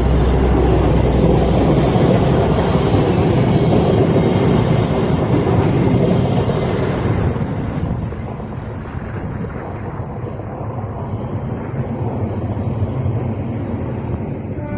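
Train hauled by a KAI CC206 diesel-electric locomotive, running close by with a loud, steady rumble and a low engine hum in the first couple of seconds. The sound eases off after about seven seconds.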